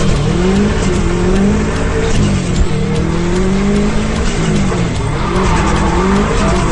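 Drift car engine revving up and down as the car drifts, with tyres squealing.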